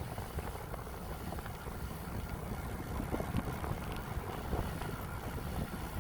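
Wind buffeting the microphone of a camera on a bicycle riding downhill: a steady, uneven low rush with no clear tone.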